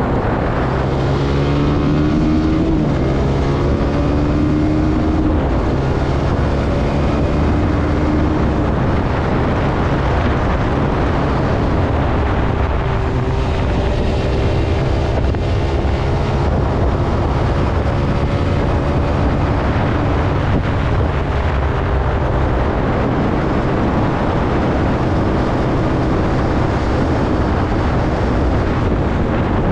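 Zontes C125 125 cc motorcycle engine running under way, its pitch rising and changing in steps with throttle and gear changes, over a steady rush of wind on the microphone.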